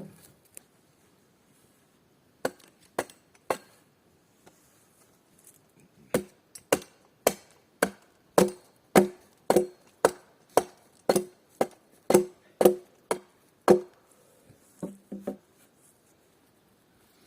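A tool striking wood: three blows, a pause of a couple of seconds, then a steady run of about fifteen blows at roughly two a second, each with a short wooden ring, ending with a few lighter taps.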